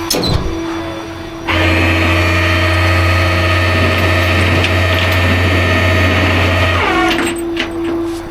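Rollback tow truck's hydraulics running while loading a car: a steady mechanical hum cuts in about a second and a half in, holds steady, then winds down with a falling pitch near the end.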